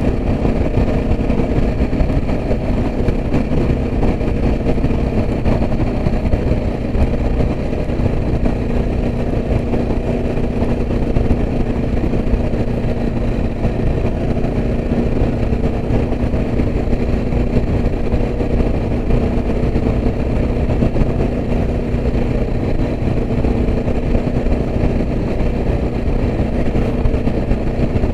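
Yezdi Adventure motorcycle's single-cylinder engine running at a steady pace while riding, over a continuous rush of road and wind noise.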